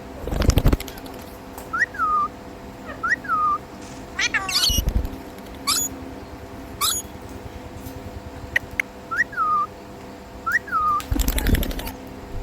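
Pet ringneck parrot giving short whistled notes, each sliding down in pitch, repeated every second or two, with three louder harsh bursts among them.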